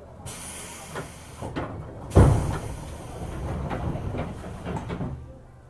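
Pneumatic sliding doors of a JR 205-series commuter train closing: a rush of air hiss, then a heavy thud as the doors shut about two seconds in, followed by lighter knocks and hissing.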